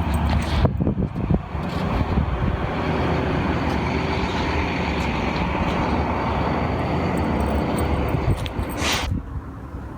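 Strong wind buffeting the microphone, a steady low rumble and rush that eases near the end.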